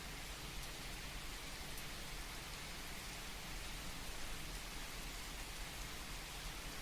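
Steady rain falling: an even, soft hiss with faint scattered drop ticks.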